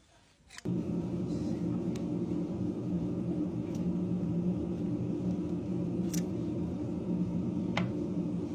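A motor switches on suddenly about half a second in and runs steadily at an even hum, with a few sharp clicks over it.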